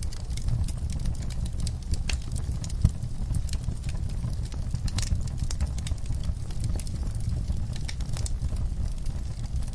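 Wood fire burning in a fireplace: a steady low rumble of flames with frequent small crackles, and a sharper pop about three seconds in.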